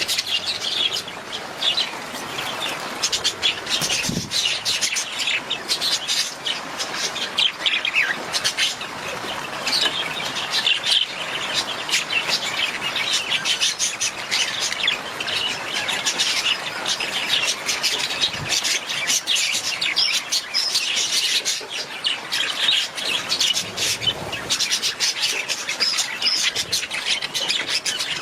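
Budgerigars chirping and chattering continuously, many short overlapping calls.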